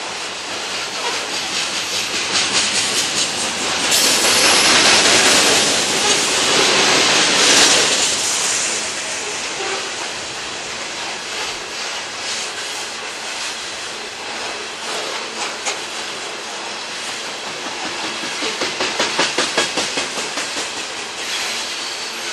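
Loaded coal hopper cars of a freight train rolling past. Their steel wheels rumble on the rails and click in quick runs over rail joints. A louder rushing hiss lasts for a few seconds about four seconds in.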